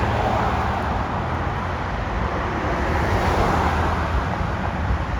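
Jet noise from Snowbirds CT-114 Tutor jets passing overhead: a steady roar that swells to its loudest about three seconds in, then eases slightly.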